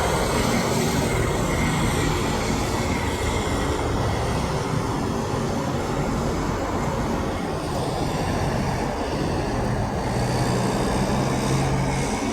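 Heavy vehicle traffic rumbling past with loud, steady road noise; a low engine drone comes up near the end. No horn sounds.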